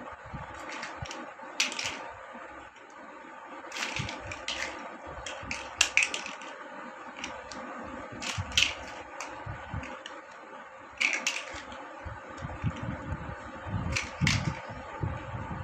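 Plastic building blocks clicking and clattering at irregular moments as they are handled and pressed together, over a steady faint hum.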